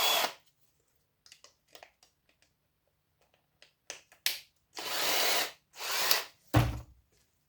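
Electric drill run in short bursts, a spin-down just at the start and two more runs about five and six seconds in, with scattered small clicks from handling the circuit board and a dull thud just before the end.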